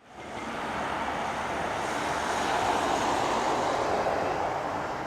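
Jet noise from an Airbus A320neo on its landing approach, its CFM LEAP-1A engines making a steady rushing sound that swells to a peak about three seconds in and then begins to fade.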